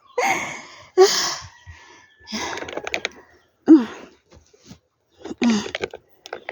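A woman breathing hard, out of breath from climbing a steep hill: about five heavy breaths, some with a short voiced groan at the start.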